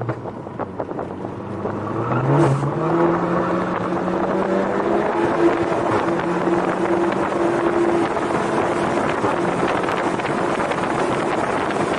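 SEAT Cupra's engine heard from inside the cabin under hard acceleration: after a dip, its pitch climbs steadily from about two seconds in, then levels off, over steady tyre and wind noise.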